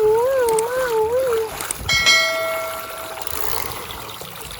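A wavering, siren-like wail for about a second and a half, then a single bright bell-like ding that rings out and fades, over the faint rush of a stream.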